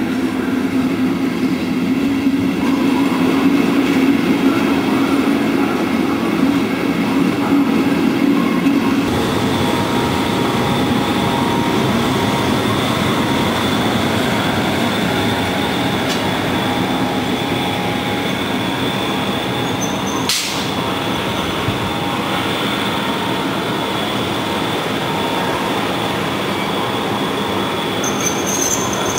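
A passenger train rolling slowly through a station: steady running noise with a low hum at first, then a high wheel squeal that sets in about a third of the way through and holds. One sharp clunk comes about two-thirds in, and a higher squeal joins near the end.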